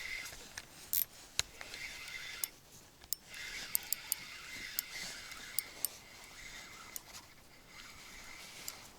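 Spinning reel being cranked to bring in a hooked pike: a soft, high whir with scattered sharp clicks, pausing briefly about three seconds in.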